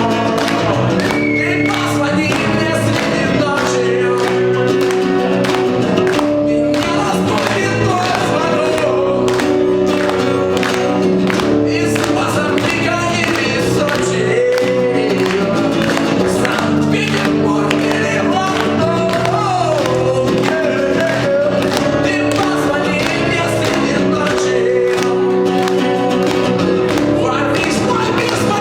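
Live acoustic band music: a rock song played on acoustic instruments with strummed guitar and singing, at a steady loud level throughout.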